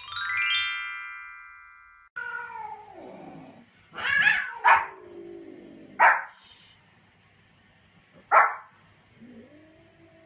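A rising chime rings out over about two seconds. Then a small white spitz-type dog gives four short, sharp barks at cats, with drawn-out, wavering meow-like calls before and after them.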